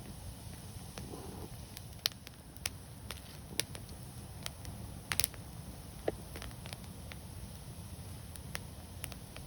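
Wood fire crackling: irregular sharp pops and snaps over a steady low rumble of burning, with a quick cluster of louder pops a little past halfway.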